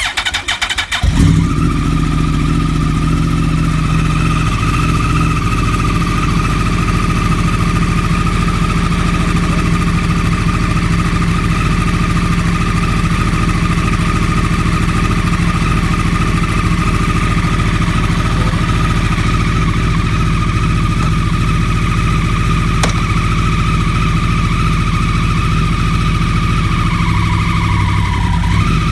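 2009 Yamaha R1's inline-four engine cranked on the starter and catching about a second in, then idling steadily with a high whirring whine over the engine note, the noise the owner wants cured. The whine and engine dip briefly in pitch near the end.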